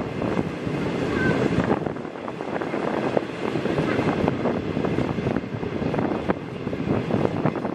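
Passenger train in motion, heard from an open window of a 25B coach: wheels rumbling and clicking on the rails, with wind buffeting the microphone.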